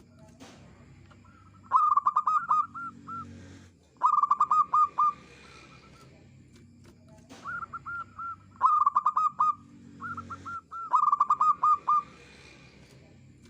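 Zebra dove (perkutut) cooing: phrases of rapid, bubbling notes, repeated several times with short pauses between.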